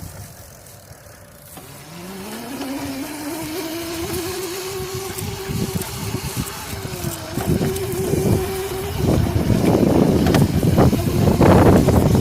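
Razor MX350 electric dirt bike's motor whining, rising in pitch as it speeds up about two seconds in and then holding steady. The whine stops about nine seconds in, leaving loud rumbling noise with bumps.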